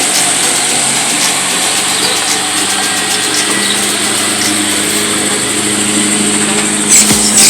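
Car engine idling steadily. About seven seconds in, louder sudden thumps break in.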